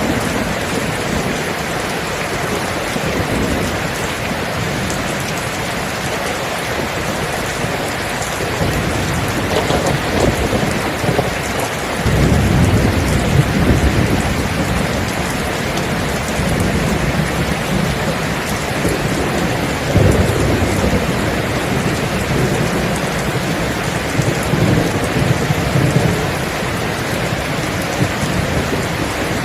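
Steady heavy rain. Rolling thunder rumbles in about twelve seconds in, and again at about twenty and twenty-five seconds.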